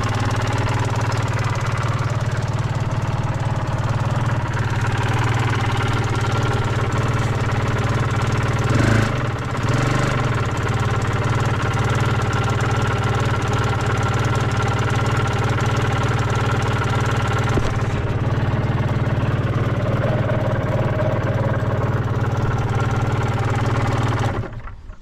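Suzuki RGV250 Gamma's two-stroke V-twin idling steadily, with a short blip of the throttle about nine seconds in, then stopping abruptly near the end. The seller calls the running free of abnormal noise.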